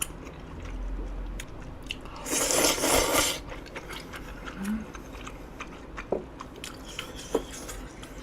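A person chewing a mouthful of grilled eel and rice close to the microphone, with many small wet mouth clicks. There is a louder noisy stretch of about a second near the three-second mark, and a short low hum a little later.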